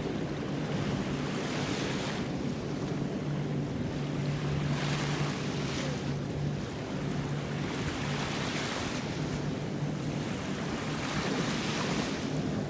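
Ocean surf: waves breaking and washing up the beach, swelling every two to three seconds, with wind on the microphone.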